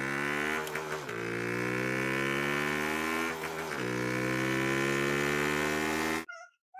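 A small electric motor buzzing steadily, its pitch slowly creeping up and dipping twice, then cutting off suddenly near the end.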